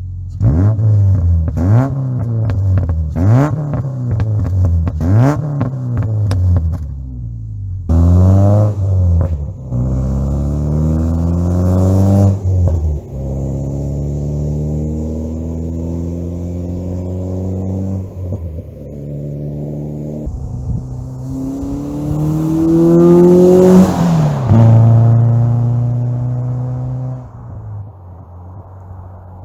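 Subaru Outback's 2.5-litre boxer four through a Cherry Bomb axle-back exhaust, revved in a quick run of about seven blips, then in longer pulls and one big rev that falls back to a steady idle. There is crackling on the drops in revs, from a burble tune that pulls timing on overrun.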